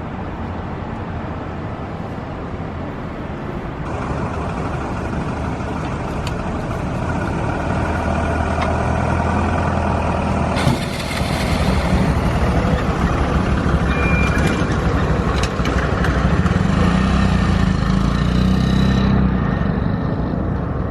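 Honda Monkey 125's small single-cylinder engine pulling steadily on the climb, mixed with wind and road noise from riding. The sound changes abruptly about 4 and 11 seconds in, where the footage cuts between takes, and grows louder toward the end.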